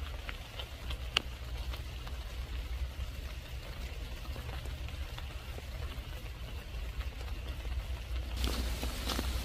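Pouring rain, heard as a steady hiss over a deep low rumble on the phone's microphone, with a few light ticks. Rustling footsteps on the wet path start near the end.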